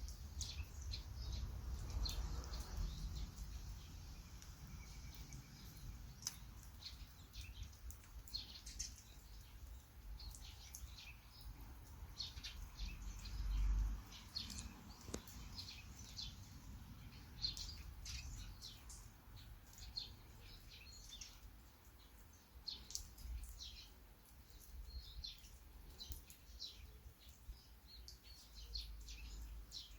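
Small birds chirping repeatedly in short, quick calls, over a faint steady hiss and a low rumble that swells now and then.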